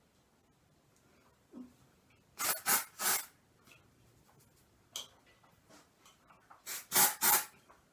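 Aerosol dry shampoo sprayed in short hissing bursts, three quick sprays about two and a half seconds in and three more near the end.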